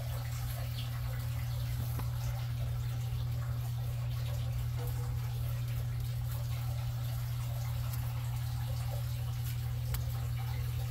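Faint trickling and dripping water over a steady low hum, with small scattered ticks.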